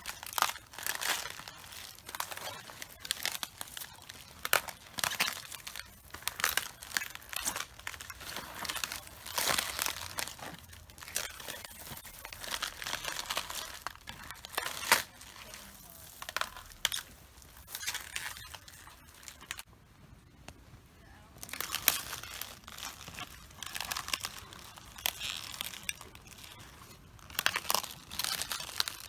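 Cabbage leaves crunching, cracking and tearing as they are crushed underfoot, in irregular crisp crackles, with a short lull about two-thirds of the way through.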